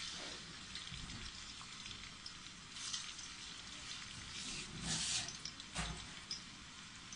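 Chopped ginger frying gently in hot oil in a wok: a faint steady sizzle with a few sharper crackles and pops.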